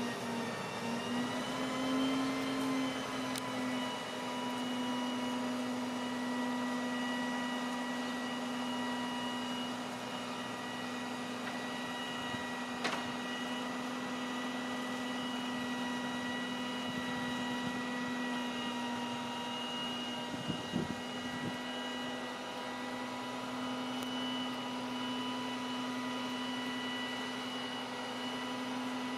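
Peterbilt garbage truck with a crane running steadily with a constant pitched whine, its pitch wavering briefly at the start. A single sharp click about halfway through and a few light knocks about two-thirds in.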